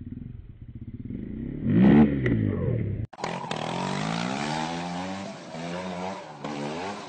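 Motorcycle engine revving up, climbing to a loud peak about two seconds in. After a sudden cut, another motorcycle engine runs with its pitch rising and falling.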